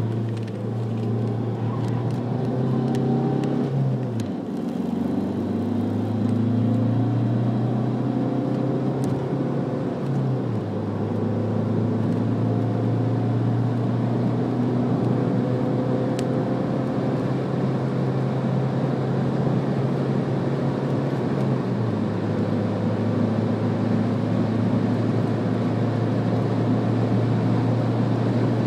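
Alfa Romeo MiTo's engine heard from inside the cabin, driven hard on a race track, over steady tyre and road noise. The engine note dips about four and ten seconds in and drops again about twenty-two seconds in, with the gear changes.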